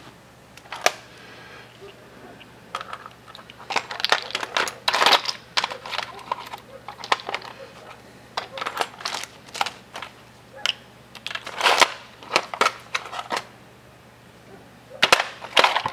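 Small metal fittings clinking and rattling in irregular bursts as someone rummages by hand through hardware looking for a pipe plug.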